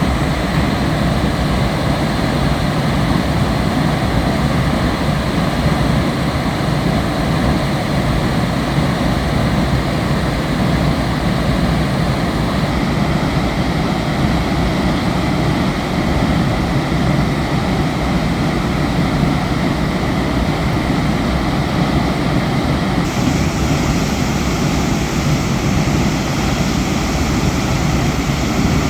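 High Falls of the Pigeon River: a large waterfall rushing, a loud, steady wash of falling water.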